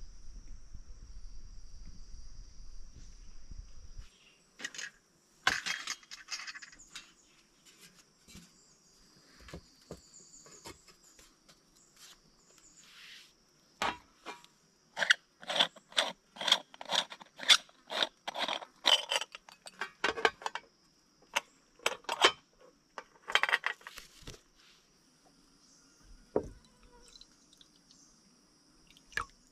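Crickets and other insects buzzing in a steady high drone. Over it comes a run of short, sharp clinks and knocks, densest in the middle at about two a second.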